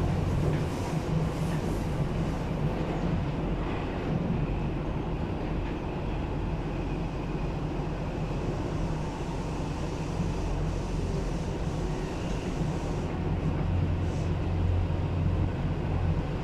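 Interior running noise of a Seibu 9000 series electric train: a steady low rumble of the car and its wheels on the rails while under way.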